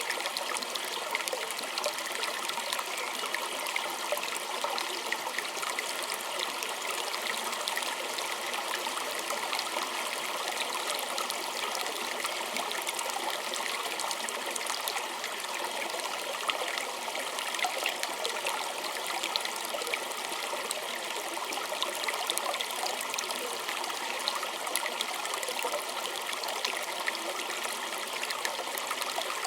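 A small stream trickling and gurgling over stones: a steady rush of water with many small splashes and drips.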